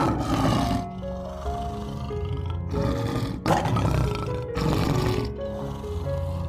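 A big cat roaring in a series of rough calls, each about a second long, over background music of held notes.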